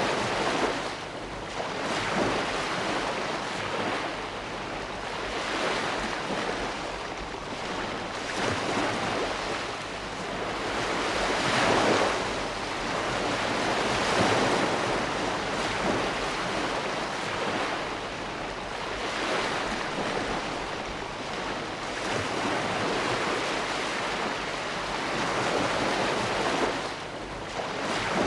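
Ocean waves breaking and washing in, a steady rush of surf that swells and ebbs every few seconds.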